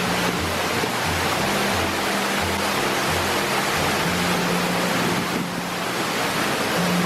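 Steady rushing roar of a waterfall, with background music over it: a low bass note pulsing about one and a half times a second under held notes.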